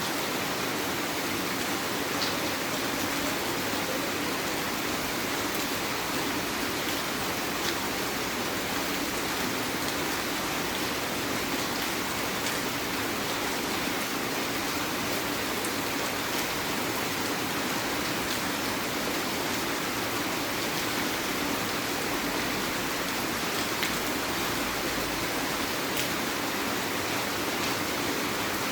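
Heavy rain falling steadily, an even rushing wash with a few faint drop ticks.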